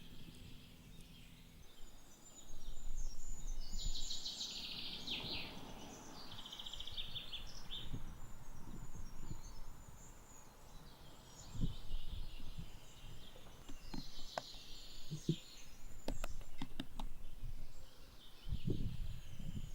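Wild birds chirping and trilling, including fast rattling trills a few seconds in. A few sharp clicks and low knocks come in the latter part.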